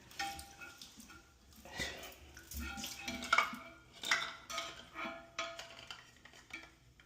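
Repeated clinks and knocks of toilet tank parts being handled, hard plastic of the snapped flush valve knocking against the porcelain tank, some with a short ring.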